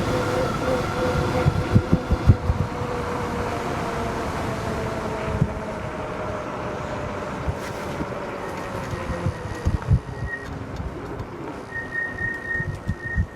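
Wind buffeting the microphone while riding a dual-hub-motor electric bike, with the hub motors' faint whine slowly falling in pitch as the bike slows. A thin, steady high whistle comes in near the end.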